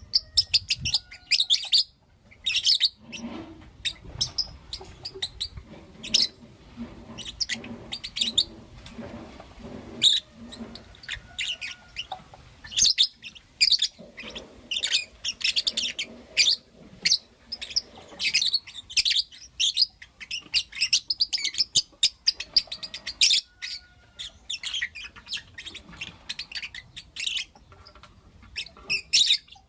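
Pet lovebirds, a blue opaline and a lutino opaline, chirping and calling in quick, shrill runs of short notes, with a couple of brief pauses.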